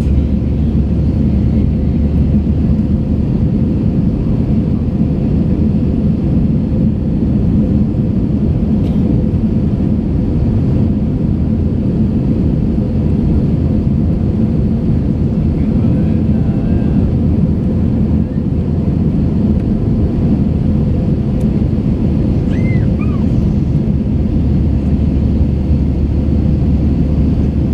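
Steady in-flight cabin noise of an Airbus A321 climbing: a constant low rumble of engine and airflow with a steady hum.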